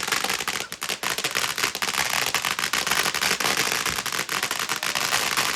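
Fireworks crackling: a rapid, unbroken string of sharp pops, many each second, like a long firecracker string going off.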